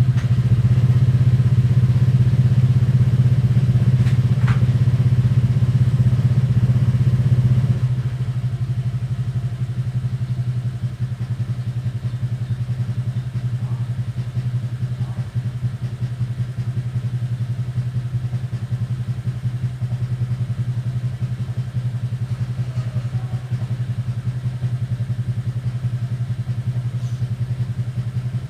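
A small engine running steadily with a low, even hum, easing a little in level about eight seconds in.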